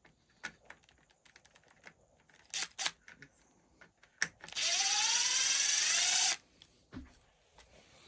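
Cordless electric screwdriver running for about two seconds, its whine rising as the motor spins up and then holding steady, while it backs out screws on an RC truck's body mount brackets. A few light clicks of handling come before it, and a dull knock after.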